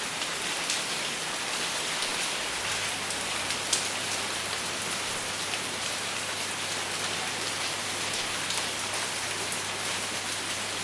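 Steady rain falling, an even hiss with individual drops pattering through it and no thunder.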